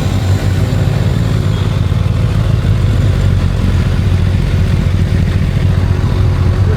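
Kawasaki inline-four sport motorcycle running at road speed, a steady low rumble mixed with wind buffeting on the microphone.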